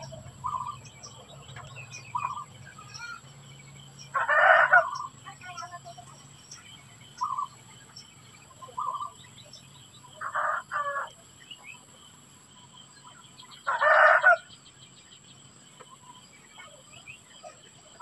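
Bird calls: two loud calls of about a second each, around 4 and 14 seconds in, with shorter calls between, over a steady high-pitched hum.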